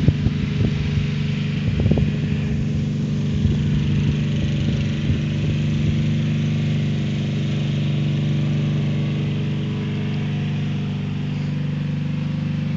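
Riding lawn mower engine running steadily at an even pitch, with irregular knocks and rattles during the first half.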